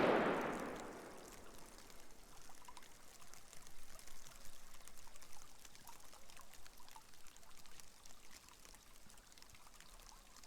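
Water flowing along a drainage canal carrying rain water or snowmelt, a steady running and trickling sound. It opens with a sudden loud rush that fades away within about a second and a half.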